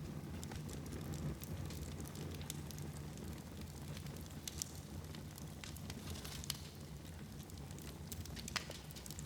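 Fire burning in a fireplace: a steady low rumble with scattered crackles and sharp pops.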